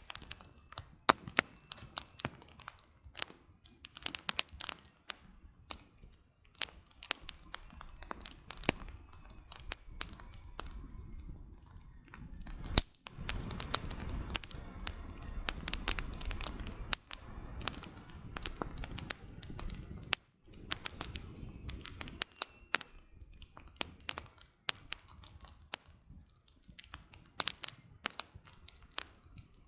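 Campfire of burning firewood crackling, with frequent sharp pops and snaps at irregular intervals. A low rushing noise swells for several seconds in the middle, then fades back under the crackle.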